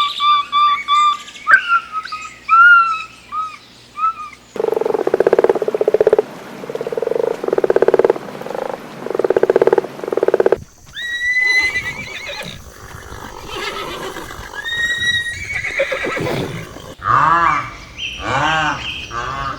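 Several different farm animal calls, one recording after another, with abrupt changes about four and a half seconds in and again about eleven seconds in: first high chirping calls, then a run of lower repeated calls, then further mixed calls.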